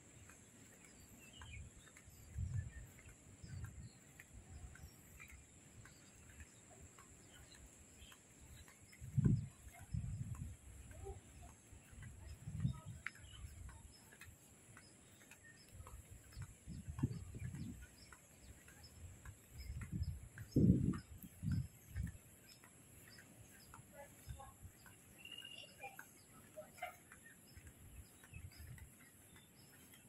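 Scattered faint bird chirps over a steady high-pitched hiss, broken now and then by muffled low thumps on the microphone, the strongest a few of them partway through and again past the middle.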